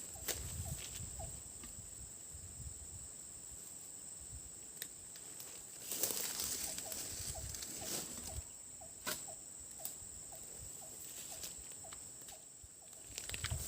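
Forest ambience: a steady high-pitched insect drone with a string of short repeated chirps from a small animal, scattered clicks, and a louder rustle of movement through leaves and brush about six seconds in.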